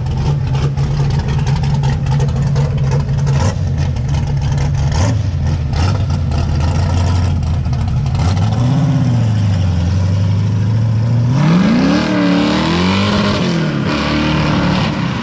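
Car engine idling steadily, then blipped: one short rev about nine seconds in, and from about eleven seconds a run of quick revs that rise and fall.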